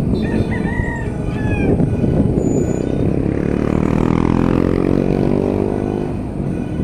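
A rooster crows near the start over steady road noise. Then a vehicle engine rises in pitch for a few seconds as it speeds up.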